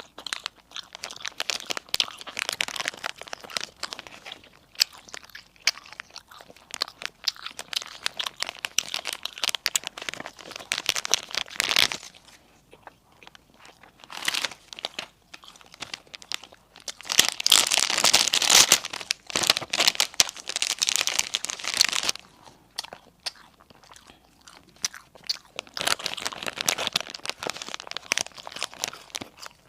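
Crunching and chewing of crispy baked food, such as sesame-bun burgers and wraps, in spells of dense crackly bites with short pauses. The loudest spell comes a little past the middle.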